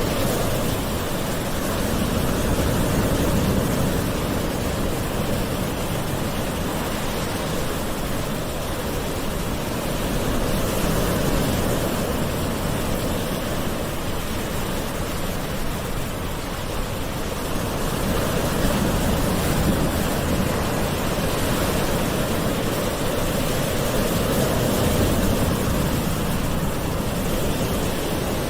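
Gentle ocean waves washing continuously onto a shore, the surf swelling and easing slowly about four times, roughly every eight seconds.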